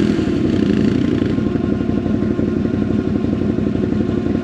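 ATV engine running steadily at low revs, a close, even engine note with no revving.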